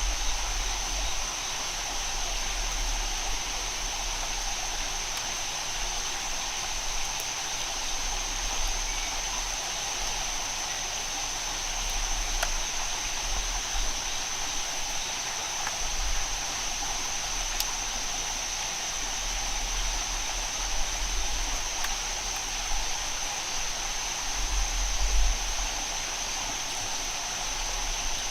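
Steady rainforest ambience: an even rushing hiss of rain or running water under a constant high-pitched whine, with low rumbles coming and going.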